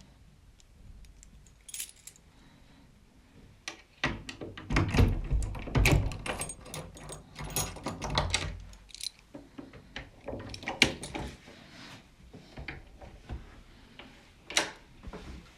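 Handling and clatter noises: a series of sharp clicks, knocks and light jingling, busiest from about four to nine seconds in with dull low thuds among them, then sparser clicks.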